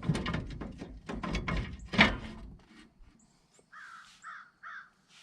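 Metal clinking and knocking as hub parts and tools are handled, with one sharp strike about two seconds in. Then a crow caws three times.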